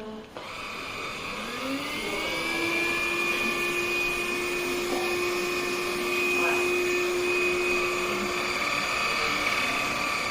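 Russell Taylors V5 cordless vacuum cleaner switched on: its motor whine rises in pitch for a couple of seconds as it spins up, then runs steadily.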